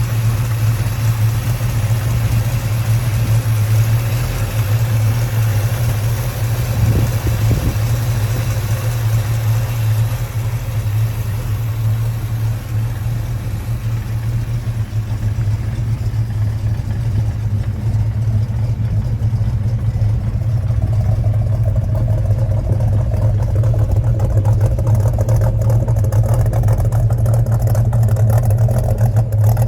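1968 Pontiac GTO's 428 cubic-inch V8, fitted with a performance camshaft, running steadily. It gets a little louder in the last third.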